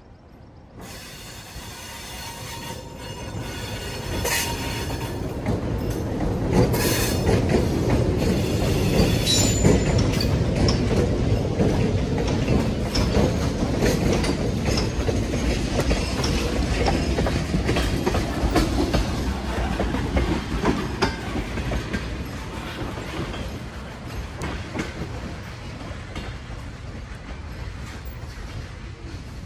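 MLW RS18u diesel locomotives rumbling past close by, followed by tank cars rolling over the rail joints with a clickety-clack and a few brief wheel squeals. The sound builds over the first ten seconds and fades as the train moves away.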